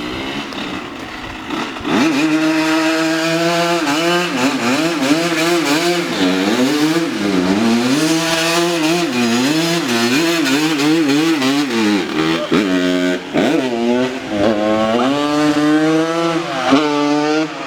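Dirt bike engine revving, its pitch rising and falling again and again as the throttle is worked. It is quieter for the first two seconds, then much louder.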